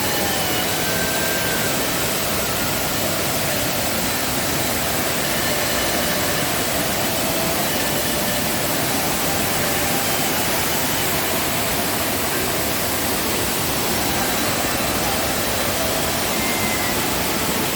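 Waterfall in rainy-season flood: a steady, loud rush of falling water.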